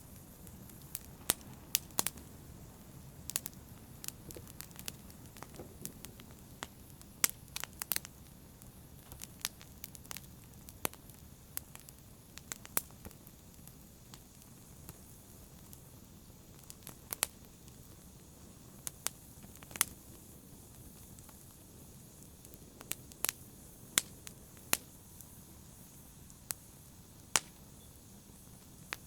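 Wood fire crackling in a fireplace: a soft steady hiss with sharp, irregular pops and snaps, a few of them much louder than the rest.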